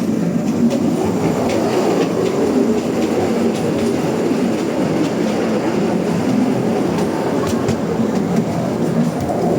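Steady, loud rumble of a moving vehicle, with a few faint clicks now and then.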